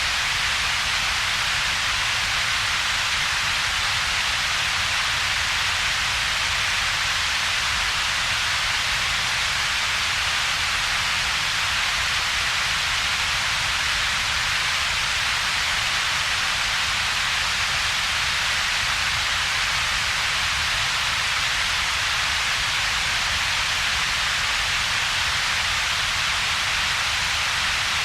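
Synthetic double-peaked coloured noise: a steady, even hiss with its energy gathered in two bands, a strong one centred around a few kilohertz and a weaker low rumble below about 200 Hz, with a gap between them. It never changes.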